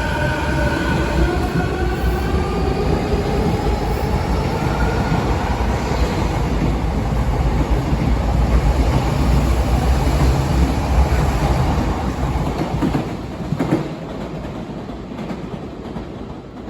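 Electric commuter train pulling away: the traction motor whine rises in pitch over the first few seconds, the running rumble of the cars builds to its loudest, and then fades as the train moves off near the end.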